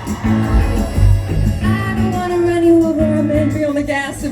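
Live band music with a bass line and guitar chords, and a woman's sung line coming in about halfway through, heard as a crowd recording at a concert.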